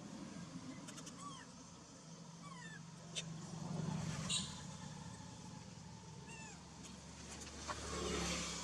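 Baby monkey giving short, high chirping cries several times, begging for milk, over a steady low hum.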